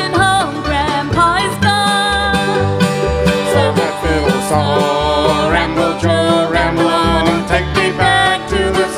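Live bluegrass band playing: banjo picking over guitar, with a bass line pulsing steadily on the beat.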